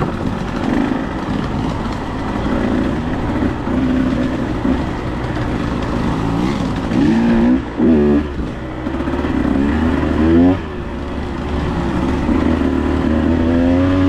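Dirt bike engine running on a trail ride, its revs rising and falling as the throttle is worked, with quick rev blips about halfway through and again a couple of seconds later.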